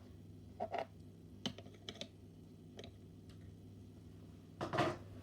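A scatter of light clicks and taps from small hard plastic or die-cast models being picked up and handled, with a louder clatter near the end. A faint steady hum runs underneath.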